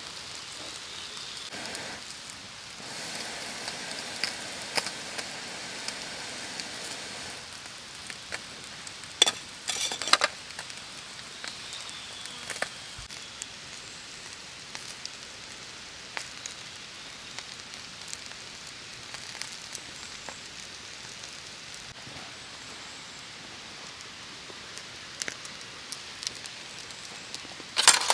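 Wood campfire with fish grilling over it: a steady hiss and sizzle, with a few sharp crackles about nine and ten seconds in and scattered small pops.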